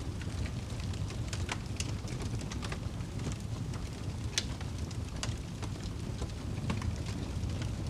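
Wood fire crackling in a fireplace: a steady low rush of flame with scattered sharp pops and snaps, the loudest about four seconds in.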